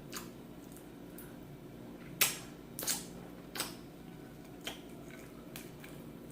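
Eating sounds at close range: about six sharp, scattered clicks and taps, the loudest about two seconds in, over a faint steady hum.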